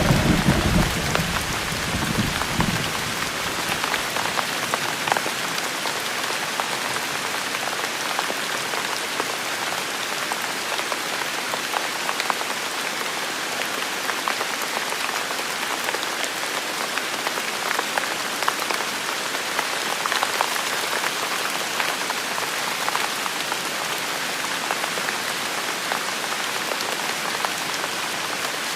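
Steady rain falling, with single drops ticking through it. A low thunder rumble dies away over the first few seconds.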